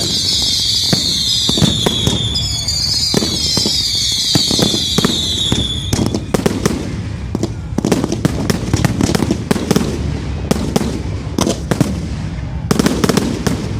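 Fireworks display: for the first six seconds or so, shrill whistling fireworks sound in repeated wavering waves over scattered cracks. After that comes a dense run of sharp bangs and crackles.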